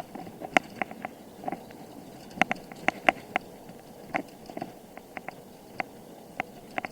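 A series of irregular sharp clicks and taps, a dozen or more, each with a brief ringing tone, loudest in clusters around the middle of the stretch.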